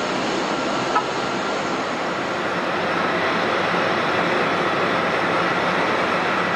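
Jet airliner engines running with a steady rushing noise and a faint high whine, growing a little louder after about three seconds.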